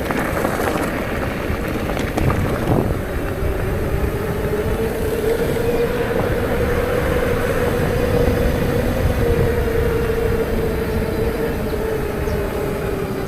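Steady low rumbling noise, like wind on the microphone while moving, with a steady hum that comes in about three seconds in, rises slightly in pitch and sinks back near the end.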